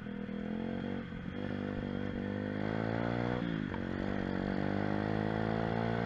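Pit bike engine running, its revs dipping and climbing back three times: about a second in, about three and a half seconds in, and near the end.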